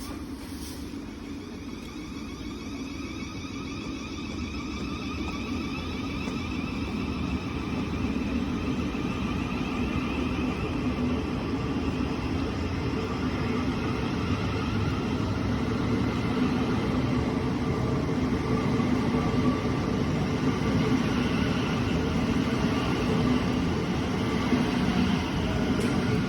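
Class 700 Siemens Desiro City electric multiple unit pulling away: several high whining traction tones over a low rumble of wheels on track, growing steadily louder as the train gathers speed.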